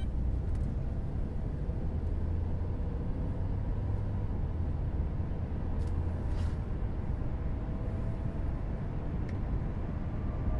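Steady low rumble of road traffic, with a brief soft whoosh about six seconds in.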